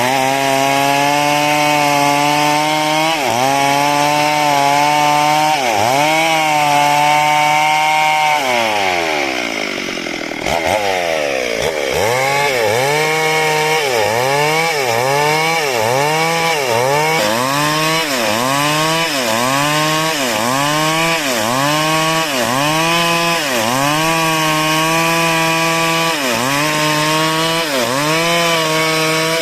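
Chainsaw engine running at high revs while cutting wood. About a third of the way in the revs fall away and then climb again. After that the pitch dips and recovers roughly once a second.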